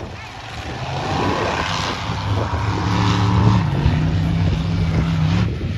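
Monster truck engine running hard, growing louder over the first few seconds, then holding a steady pitch with a slight drop midway before cutting off just before the end.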